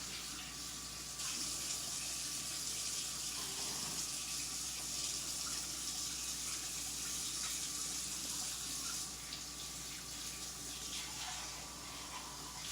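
Steady hiss of running water, starting about a second in and stopping around nine seconds.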